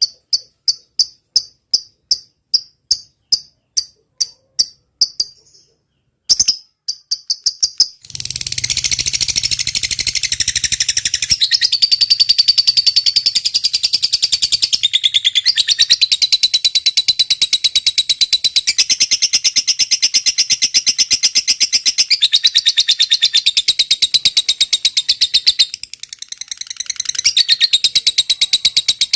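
Recorded bird-training calls: a high insect-like chirp repeating about two or three times a second, then, after a short gap, a long, fast, unbroken high trill.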